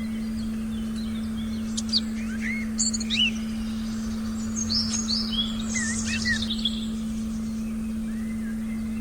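Several songbirds chirping in short quick phrases, in two bursts in the first and middle parts, over a steady low pure tone that holds unchanged throughout.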